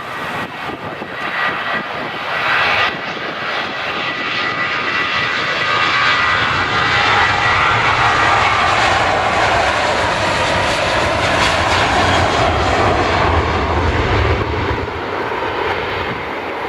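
An airliner's engines passing close, a loud steady roar that builds over the first few seconds, holds with a deep rumble, and eases a little near the end.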